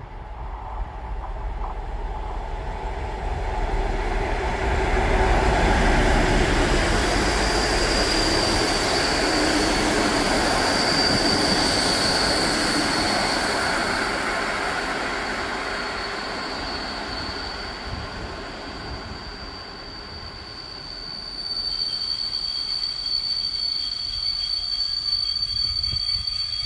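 Locomotive-hauled passenger train passing: the rumble of wheels on rail builds over the first few seconds, holds, then fades. A high wheel squeal sets in and becomes louder and steadier over the last few seconds.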